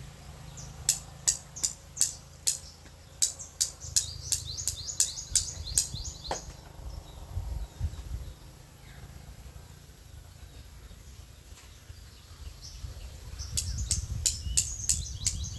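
Bird chirping: runs of short, sharp calls about two a second, stopping about six seconds in and starting again near the end, over a steady low rumble.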